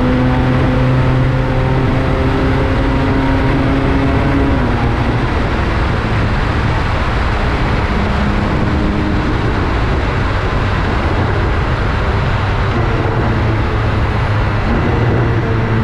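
BMW K1600GTL inline-six engine running through a Hattech aftermarket exhaust while riding, over road and wind noise. The engine note holds steady, drops about four to five seconds in, and climbs again near the end.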